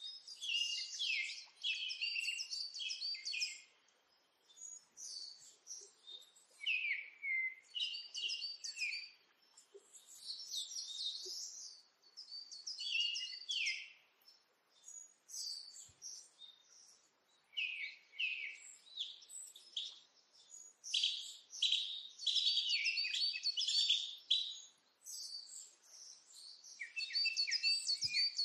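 Small birds chirping and twittering in quick phrases a second or two long, with short pauses between them.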